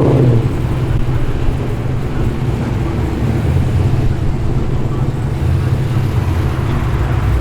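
Car engine rumbling steadily at low revs as a car rolls in slowly.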